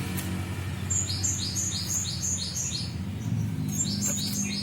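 Cinereous tit (gelatik batu) singing: two runs of quick repeated two-note phrases, each a high note slurring down into a lower one, about two and a half phrases a second, the second run starting a little before the end.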